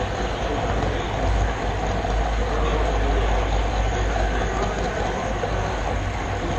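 Steady rolling rumble and rattle of a model railroad camera car running along the track, picked up by the camera riding on it.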